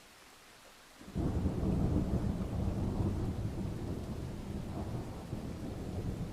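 A thunderclap breaks suddenly about a second in and rolls on as a long low rumble that slowly fades, over a faint steady hiss of rain.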